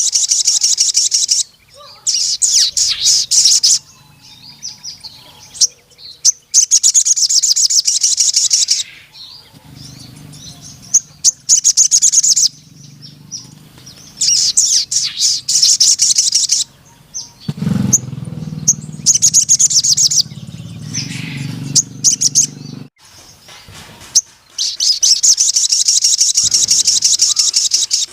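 A sogon sunbird singing in long, rapid, high trilling bursts of one to three seconds each, repeated with short pauses. A low hum sounds beneath the song twice in the middle.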